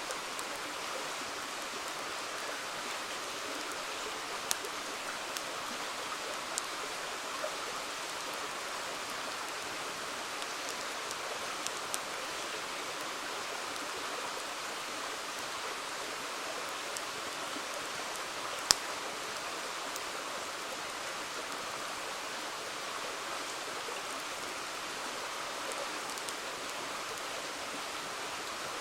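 Steady rush of a flowing river, with a wood campfire crackling over it in a few scattered sharp pops, the loudest about two-thirds of the way in.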